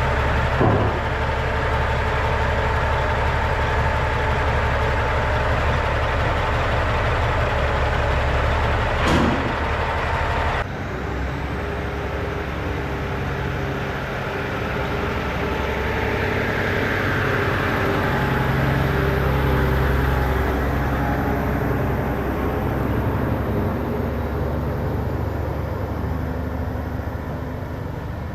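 Heavy diesel truck engine running steadily with a low rumble, a sharp click about nine seconds in, and an abrupt change in the sound partway through.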